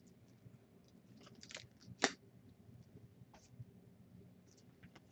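Faint handling of basketball trading cards: a few light clicks and snaps as cards are flicked through, the clearest about two seconds in.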